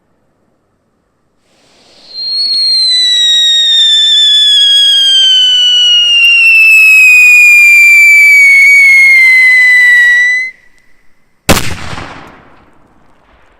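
A whistling firework rocket lets out one long whistle that falls steadily in pitch for about eight seconds and then stops. About a second later a single sharp bang follows, dying away over roughly a second: the burst.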